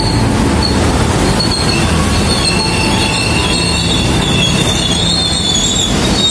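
KRL commuter electric train rolling slowly along the platform as it pulls in, with thin high-pitched squeals from its wheels and brakes over a steady low rumble.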